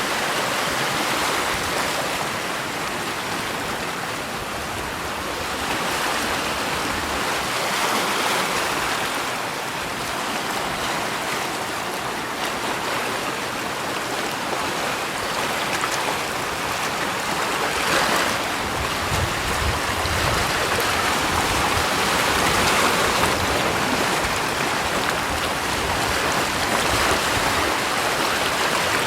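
Rushing water: a steady hiss that swells and eases every several seconds.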